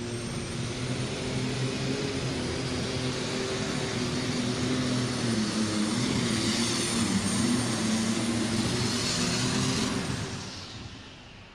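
8000 lb alcohol super stock pulling tractor (a John Deere) running at full power through a pull. The engine note wavers up and down under load, then fades away about ten seconds in.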